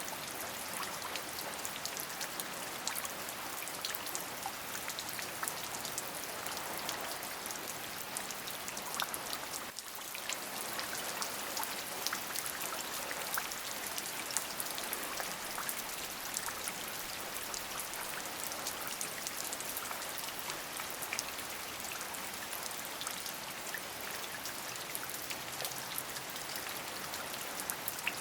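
Steady rain: a dense patter of drops over an even hiss, with a brief dip in level about ten seconds in.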